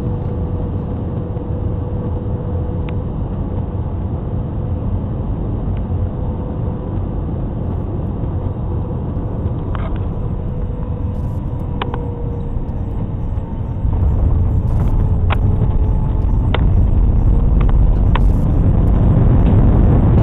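Airliner cabin noise in flight: the steady rumble of the engines and rushing air, with a faint steady hum that slides slightly lower and a few light rattling clicks. About two-thirds of the way through the low rumble steps up suddenly louder, and it swells again near the end.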